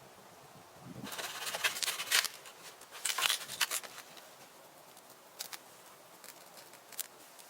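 Rustling and crackling of dry leaves and twigs for about three seconds, starting about a second in, then a few scattered small snaps and clicks.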